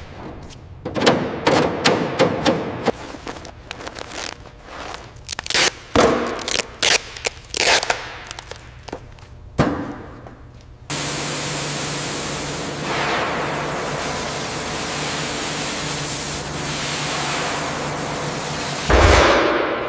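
Metal workshop noise: a run of sharp knocks and clanks, then a loud steady hiss with a low hum that starts abruptly about eleven seconds in and stops with a heavy thud near the end.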